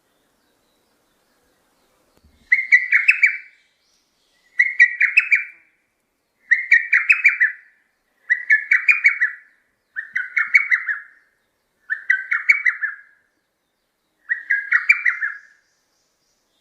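A bird calling close by: seven short, pulsing phrases of quick notes at a high, even pitch, repeated about every two seconds.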